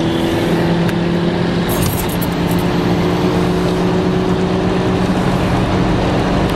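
Car engine pulling hard, heard from inside the chasing car's cabin: a steady drone whose pitch rises slowly, over road noise.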